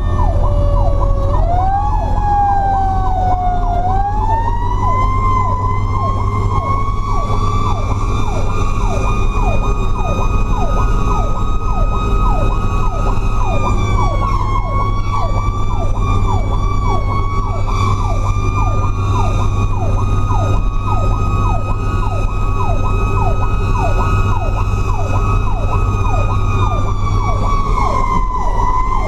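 Fire truck's Federal Q mechanical siren winding up in the first few seconds and then screaming at a high, nearly steady pitch. Behind it a second, electronic siren yelps in fast repeated sweeps, over the steady drone of the truck's engine, heard from inside the truck.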